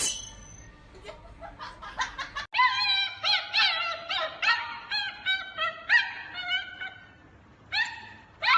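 A dog whining in a rapid run of short, high-pitched cries, each rising and falling, several a second, pausing briefly before starting again near the end.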